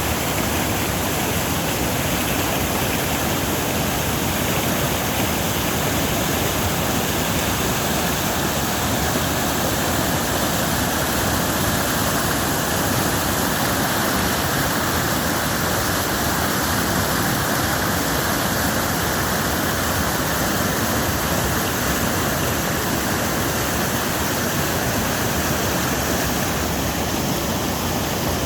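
Waterfall: falling water crashing in a steady, even rush.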